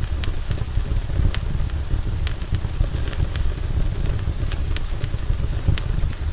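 Wood campfire burning: irregular sharp crackles and pops, roughly one or two a second, over a steady low rumble.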